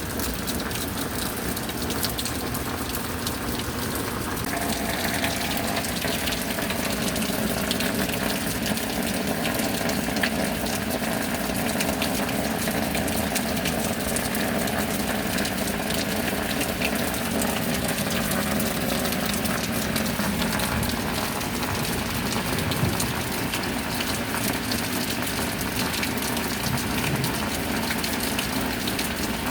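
Steady heavy rain with water running and gushing, like runoff pouring. From about four seconds in, the pouring takes on a faint hollow ring, as of water running into something.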